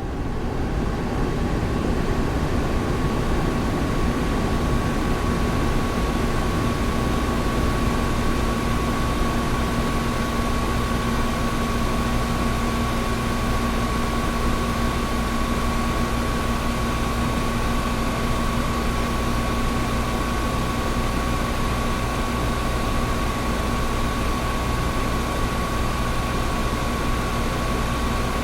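Air conditioner running steadily: an even rush of air with a low hum and a faint steady whine above it. It swells up out of silence over the first second, then holds level.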